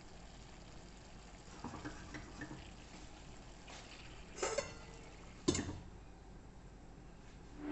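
Faint clatter of a cooking utensil against a pan: a few soft clicks, then two sharper knocks about a second apart.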